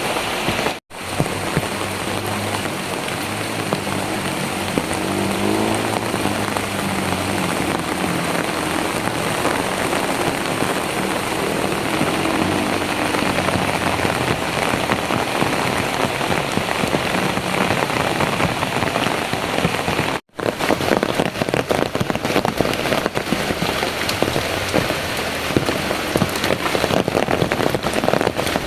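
Heavy rain pouring steadily. The sound cuts out for an instant twice, and after the second break the patter of individual drops is sharper and closer.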